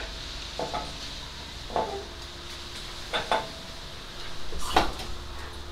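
Metal objects knocking together four times, each clank leaving a brief ring: tools or car parts being handled and set down.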